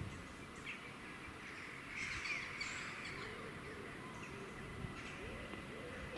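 Birds calling faintly, with a cluster of calls about two seconds in, over a quiet outdoor hum.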